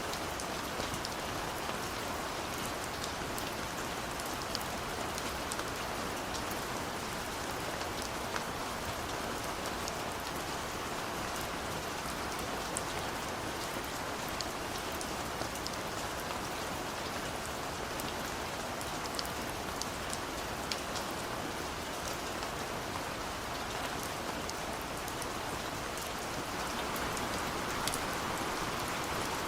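Steady rain falling, an even hiss with many individual drops pattering on surfaces.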